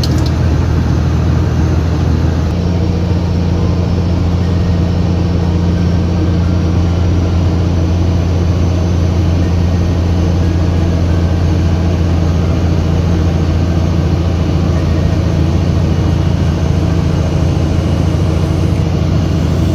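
Semi truck's diesel engine droning steadily as heard from inside the cab while driving, with a slight change in its note about two and a half seconds in.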